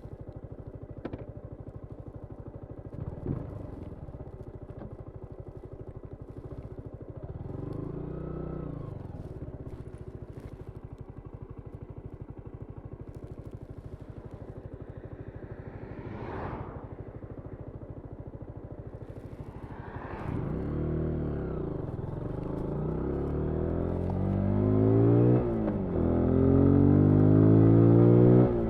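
2022 Zontes G1 125 Scrambler's single-cylinder 125 cc engine ticking over, with a few short throttle blips. Near the end the bike pulls away, the revs rising and dropping as it shifts up through the first gears.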